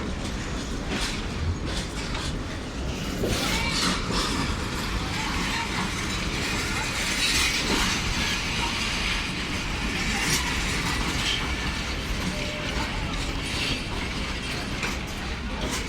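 Passenger train pulling slowly into a station platform: a steady rumble of the rolling coaches, with irregular metallic clicks and clanks from the wheels and couplings.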